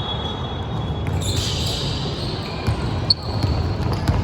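Basketball game play: a ball bouncing on the court, with brief high squeaks of shoes on the floor.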